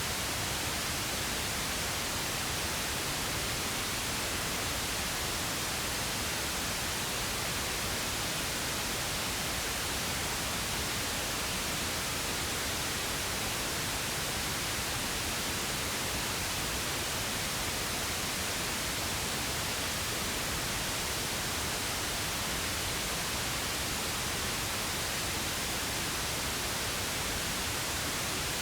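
Steady pink noise: an even, unchanging hiss across the whole range, with no events or changes.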